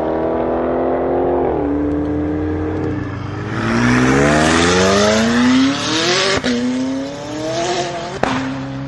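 A supercar engine accelerating hard through the gears: the exhaust note climbs steadily in pitch, then drops at each upshift. The loudest pull is in the middle, and the two later upshifts each come with a sharp crack from the exhaust.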